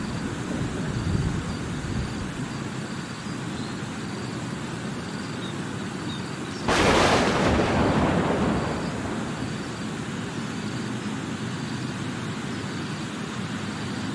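Steady rain, with a sudden loud thunderclap about seven seconds in that fades away over about two seconds.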